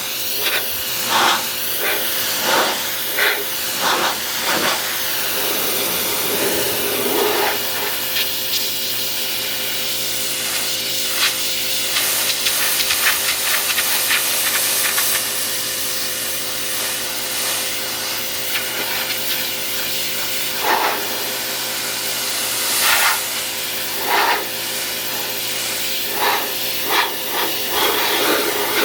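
Pressure washer spraying a car: a steady hiss of the water jet over a steady hum, with several brief louder swells.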